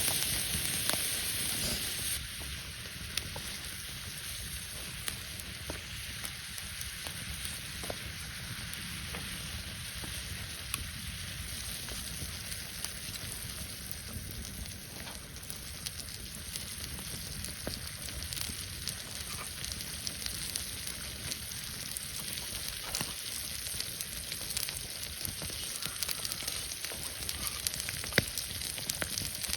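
Food sizzling in a frying pan over a campfire, a steady hiss with scattered small pops. The sizzle is louder for the first two seconds, then settles to a quieter, even level.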